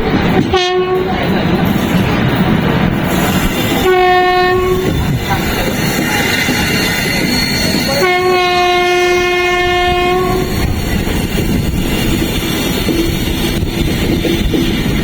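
Electric locomotive horn sounding three times (a brief blast, a second of about a second, then a long one of about two and a half seconds), over the steady rumble and clatter of the train running on the rails.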